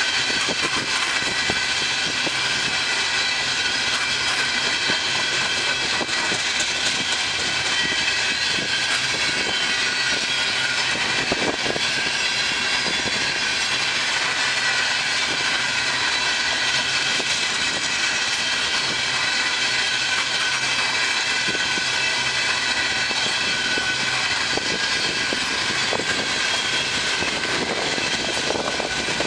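Freight train's cars rolling past at speed, a continuous wheel-on-rail noise with several steady high tones in it.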